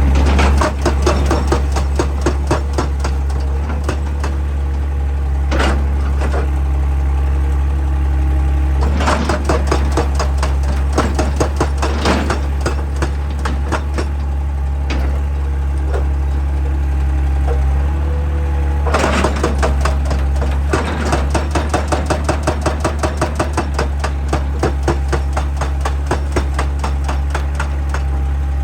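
Excavator-mounted hydraulic breaker hammer pounding rock in three long bursts of rapid blows, several a second, with short pauses between. The excavator's diesel engine runs steadily underneath.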